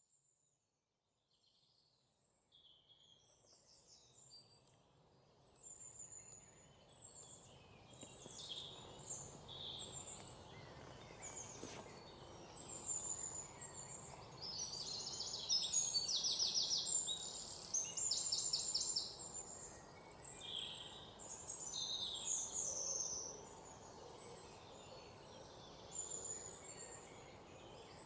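Several songbirds singing and chirping, with quick high trills through the middle, over a steady low background hush. The sound fades in from silence over the first few seconds.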